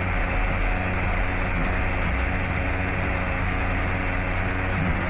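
A steady engine hum with an even low drone.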